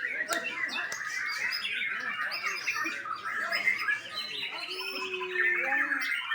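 White-rumped shama (murai batu) singing nonstop, a rapid, varied run of chirps, whistles and rattling phrases.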